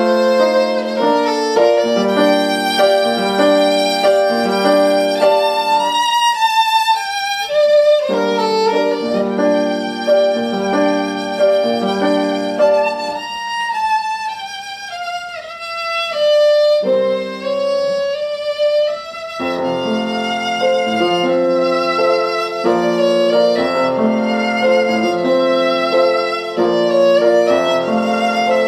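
Classical music played live on a solo instrument: a melody over steady repeated accompanying chords, thinning to a slower, descending single line about halfway through before the full texture returns.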